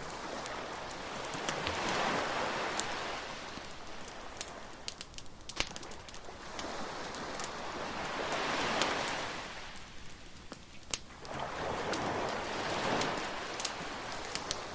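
Waves breaking and washing up the beach in three slow swells, with sharp pops and crackles from a wood bonfire throughout.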